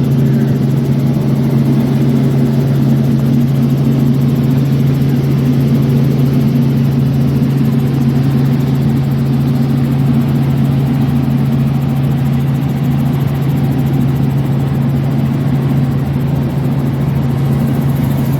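Aircraft engine running steadily and loudly, a constant low hum with overtones that holds without change.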